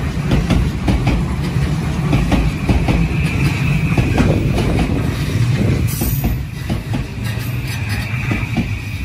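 Electric commuter train running past, wheels clattering over rail joints over a steady low rumble. A steady high-pitched squeal joins about five and a half seconds in.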